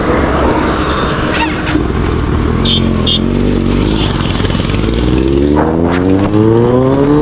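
Kawasaki Z900's inline-four engine running steadily, then rising smoothly in pitch from about five seconds in as it revs up or accelerates.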